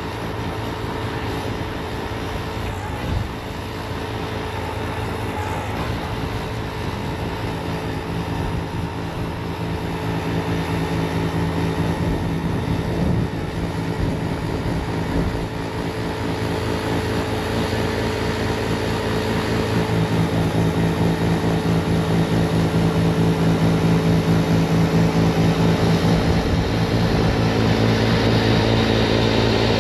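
Bobcat T66 compact track loader's 75-horsepower diesel engine running steadily as it powers a snowblower attachment, getting louder during the second half.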